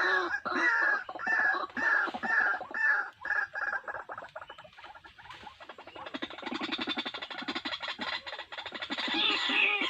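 A bird calling loudly over and over in harsh, croaking notes about two a second. The calls drop away about four seconds in, come back as a fast rapid run of notes, and return to the slower repeated pattern near the end.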